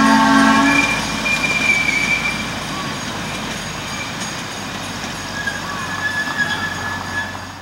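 A 15-inch gauge ride-on train's horn sounding and stopping about a second in, then the train rolling past on the curve, its wheels running on the rails with faint high squeals, slowly fading.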